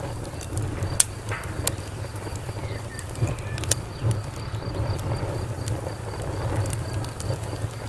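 Wood fire crackling: a low rumble with scattered sharp pops, the loudest about a second in. A cricket chirps in an even, steady rhythm in the background.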